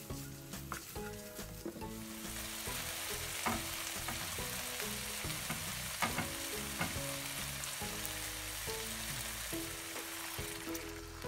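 Aromatics and sliced mushrooms frying in oil in a nonstick wok, stirred with a spatula. There are a few scrapes and taps at first, then a dense, steady sizzle from about two seconds in, broken by a few sharp knocks of the spatula. Soft background music plays underneath.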